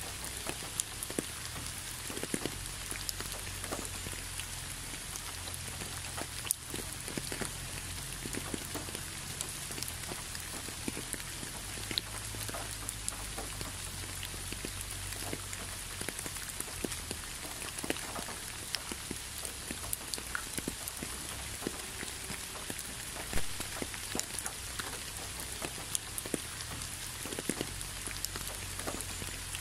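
Steady rain, with many individual drops landing as small, close ticks over an even hiss, and a low steady rumble underneath.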